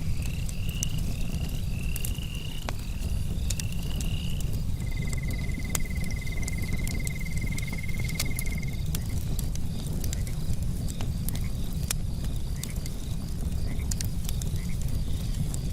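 Campfire crackling with scattered sharp pops of burning wood, over a steady low rumble, with night insects and frogs calling. A series of short rising calls repeats in the first four seconds or so. A steady trill follows for about four seconds, and faint high insect chirping goes on throughout.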